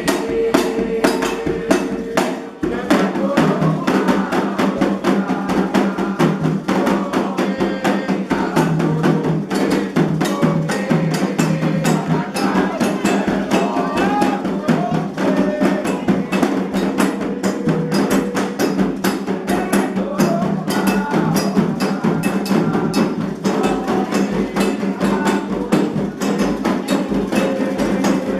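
Percussion music: drums with a dense, rapid clicking beat on a wood block or bell, under singing voices. There is a brief drop in level about two and a half seconds in.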